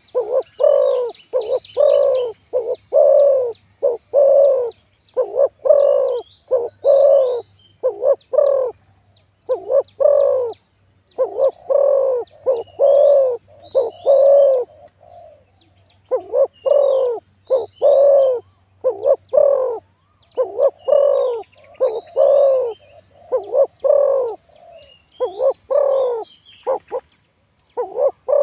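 Spotted doves cooing: deep coo notes repeated several times a second in long runs, broken by short pauses. Faint higher chirps sit above them.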